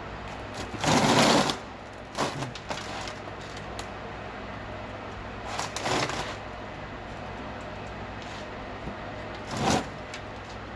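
Hand-tool work on a Jeep's front suspension as the CV axle is worked free: four short bursts of mechanical noise, the loudest about a second in, over a steady low hum.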